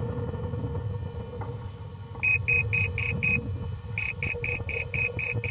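A rocket's onboard altimeter beeper sounding runs of short, high beeps, about four a second: one run of five beeps about two seconds in, and another longer run starting about a second later, over a low wind rumble.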